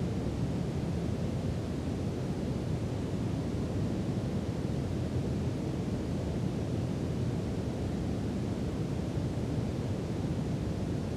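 Steady brown noise: an even, deep hiss weighted to the low end, with no changes.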